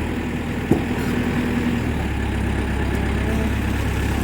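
Diesel engine of a Case 480 backhoe running steadily at low revs. Its note shifts slightly twice, and there is a single sharp knock about a second in.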